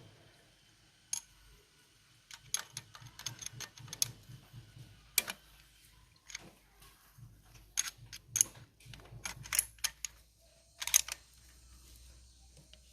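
Small metal hand tools and engine parts clicking and clinking as they are handled, in irregular light taps with clusters of quick clicks, over a faint low hum.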